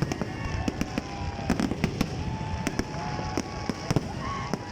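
New Year fireworks display: a rapid, irregular series of sharp bangs and crackles over a continuous low rumble of distant bursts.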